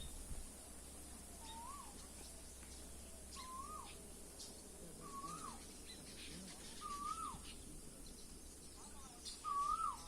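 A bird repeating a short whistled call that rises then drops, about six times, one every second and a half to two seconds, the calls growing louder near the end.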